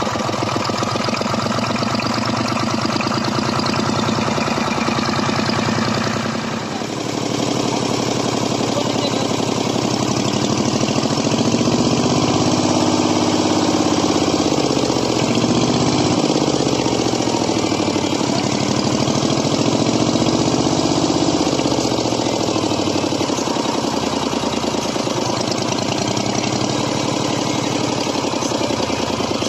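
Malticar M22 800 cc two-cylinder V-type diesel engine running with a steady, rapid firing beat. Its level dips briefly about six seconds in, after which the engine note rises and falls slowly twice.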